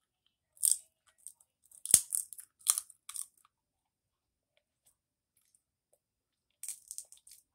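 Close-up eating sounds of a person chewing and biting food, in short bursts. The loudest is a sharp click about two seconds in, and the chewing stops for about three seconds before a last cluster near the end.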